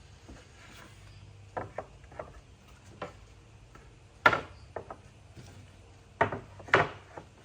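Scattered wooden knocks and clatters of wood pieces being handled and set down, the loudest about four seconds in and two more near the end, over a faint low hum.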